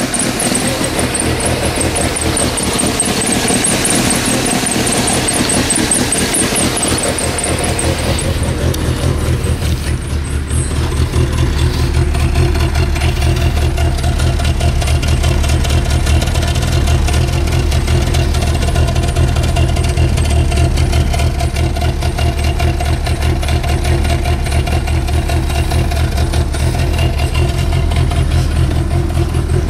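1985 Dodge Aries's carbureted 2.2-litre four-cylinder idling steadily while warming up after a cold start, still on its raised cold idle and not happy in the cold. A higher hissing sound sits over it for the first several seconds.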